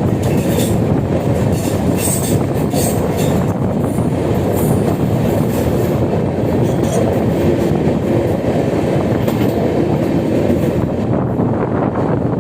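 Train running along the track: a steady heavy rumble of wheels on rail, with sharp clicks of rail clatter mostly in the first half.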